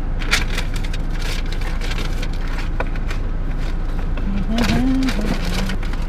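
Steady low rumble of a car idling, heard from inside the cabin. Plastic bait packaging crinkles in the hands, and there is a brief hummed "hmm" about four and a half seconds in.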